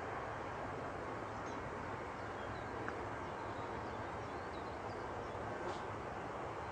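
Steady background hiss with a few faint, short high chirps scattered through it.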